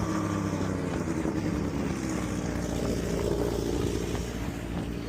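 Motorcycle engine running at low, steady revs, its pitch rising a little past midway and easing off again, with wind buffeting the microphone.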